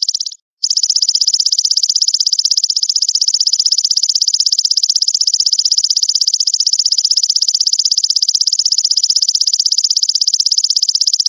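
Belalang mas insect calling: a continuous, loud, high-pitched buzzing trill made of very rapid, even pulses, breaking off briefly about half a second in.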